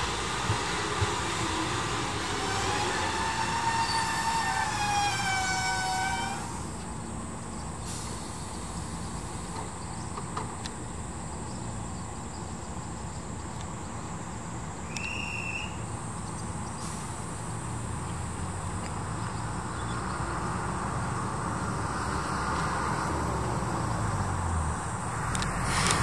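Tobu 6050 series electric train pulling into a station, giving a high whine that rises and falls as it brakes and cuts off about six seconds in. It then stands at the platform with a steady, quieter rumble, which grows louder again near the end.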